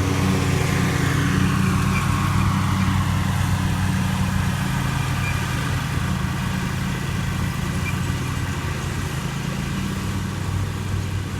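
An engine running steadily at one speed, slowly getting quieter.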